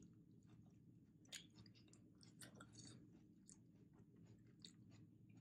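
A person chewing food, faint, with scattered soft clicks from the mouth, a little louder about a second in and again at two and a half seconds.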